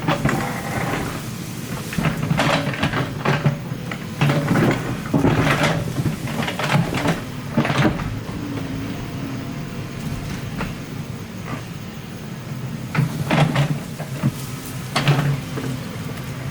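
Excavator at work: a diesel engine running steadily under repeated sharp clanks and scrapes, busiest in the first half and again near the end.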